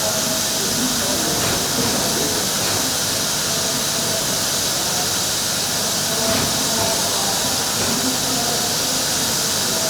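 Steam locomotive letting off steam: a steady, loud hiss.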